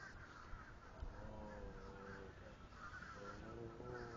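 A flock of birds calling, many short rough calls repeating and overlapping, heard faintly. Two longer, steady pitched tones come in, about a second in and again near the end.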